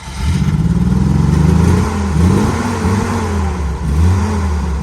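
An engine running loudly, its speed wavering up and down.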